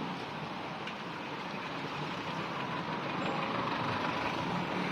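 Steady road traffic noise: motor vehicle engines and tyres going by.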